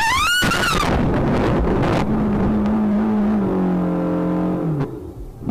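Car driving with loud engine and road noise, with a steady low engine-like drone from about two seconds in that drops slightly in pitch and cuts off sharply near the end. A brief rising tone sounds at the very start.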